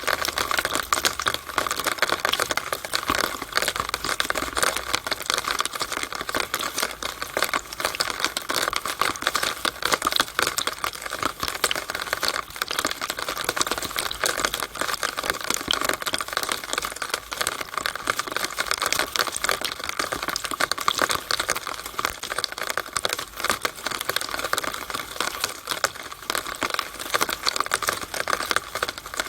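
Rainwater running down a downspout in the rain: a steady, dense, fast patter of drips and splashes.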